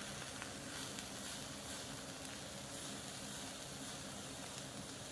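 Eggplant slices frying in a hot grill pan, giving a faint, steady sizzle.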